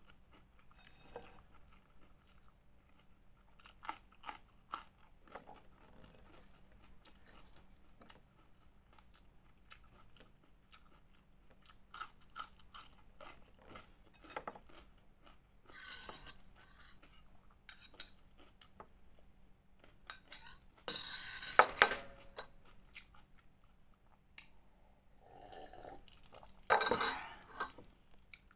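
Close-miked eating sounds: a person chewing fried fish, rice and raw young ginger, with small mouth and finger clicks and crisp crunches. The two loudest crunching bites come about three-quarters of the way through and near the end.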